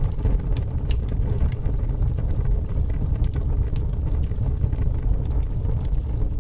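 Fire burning with a steady low rumble and frequent small, irregular crackles and pops.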